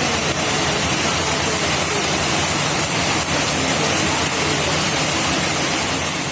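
Steady, loud rush of water from heavy monsoon rain and running floodwater, fading a little near the end.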